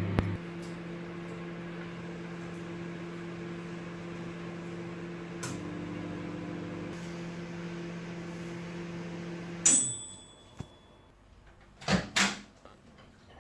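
Microwave oven running with a steady hum. About ten seconds in it stops with a single ringing ding as the timer ends. About two seconds later come two loud clunks, the door being opened.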